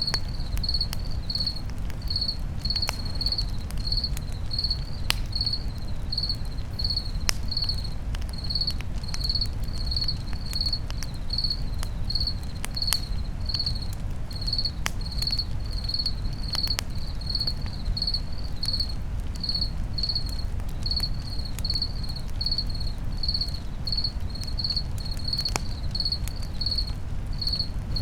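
A cricket chirping steadily at about two chirps a second, over a campfire crackling with scattered sharp pops and a low steady rumble.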